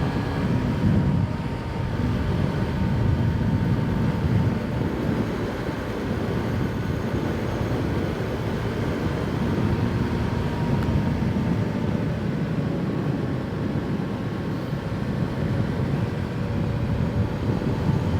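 Motorcycle running steadily at riding speed, heard as a continuous low rumble of engine, wind and road noise through a mic inside the rider's helmet.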